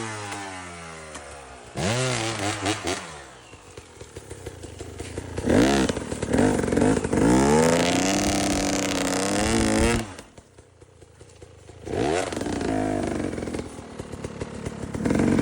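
KTM dirt bike engine revved hard in repeated bursts, its pitch climbing and then dropping away each time. A longer run in the middle holds high revs for several seconds, then cuts off suddenly about ten seconds in, before more short revs follow.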